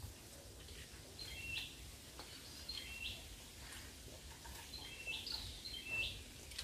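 Birds chirping outdoors: short high chirps that step down in pitch, coming every second or so. Faint low background noise runs underneath.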